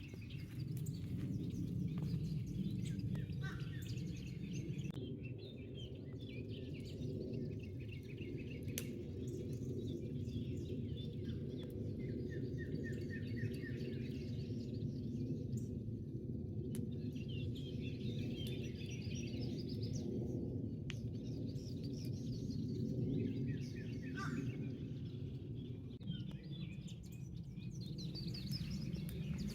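Wild birds chirping and trilling in repeated short runs of high notes, over a steady low background rumble.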